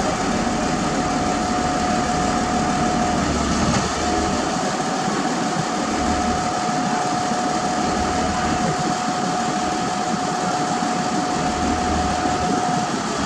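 Heavy diesel equipment running steadily: engine rumble with a constant high whine over it.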